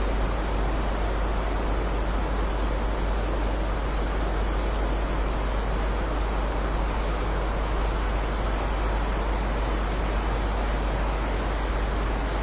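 Steady heavy rainfall: a dense, even hiss with a strong low rumble underneath and no single drops or gaps standing out.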